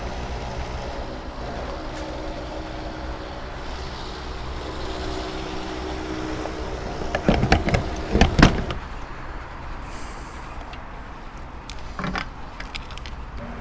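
Small motorcycle engine running steadily, then a few loud clattering knocks about halfway through and a sharp click near the end.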